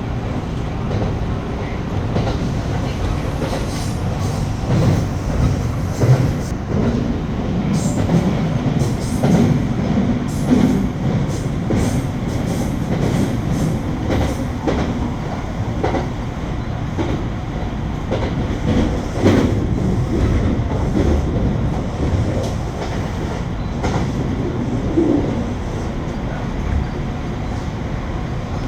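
Kintetsu 9820 series electric train running at speed, heard from inside the rear car: a steady low rumble, with wheels clicking over rail joints, most often in the first two-thirds.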